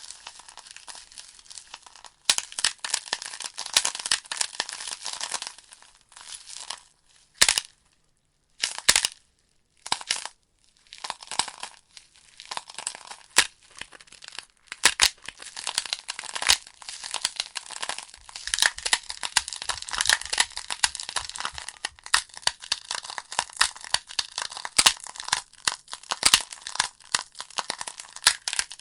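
Burning logs in a fireplace crackling and popping: a dense stream of small crackles with frequent sharp pops. The crackle drops to near silence for a few seconds roughly a quarter to a third of the way in, with only a few lone pops, then resumes.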